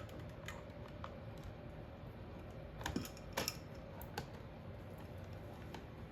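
Scattered light clicks and taps from wall switches and wires being handled at an open switch box, a few separate clicks with a pair about three seconds in.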